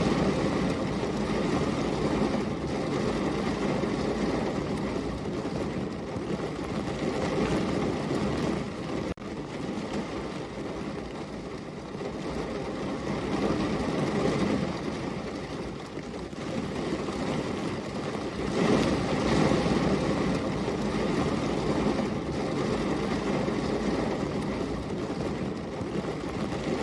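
Heavy rain falling steadily, swelling and easing every few seconds, with a brief dip about nine seconds in.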